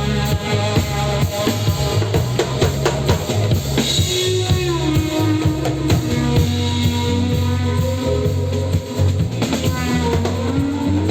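Live trance band playing: a steady drum kit beat over a bass line, with keyboard and guitar lines gliding between notes.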